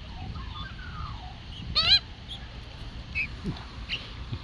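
Australian magpie giving a short, harsh call a little under two seconds in, with a faint fluting glide before it and a few soft calls later.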